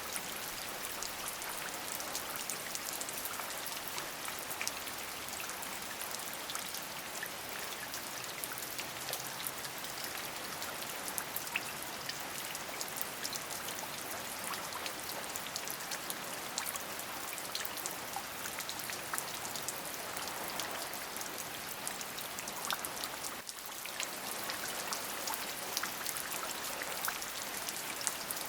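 Steady rain, with many individual drops ticking through a continuous hiss that sits mostly in the upper range. The level dips briefly once, about two-thirds of the way through.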